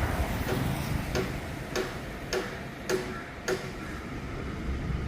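Regular ticking: six short ticks a little over half a second apart over a low steady hum, stopping about three and a half seconds in.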